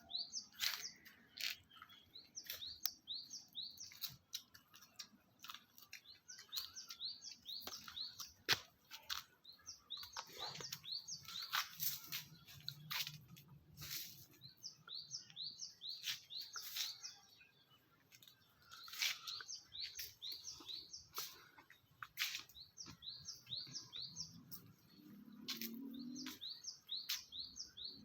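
Small birds chirping in quick runs of short, high, repeated notes, with scattered sharp clicks and crackles among them.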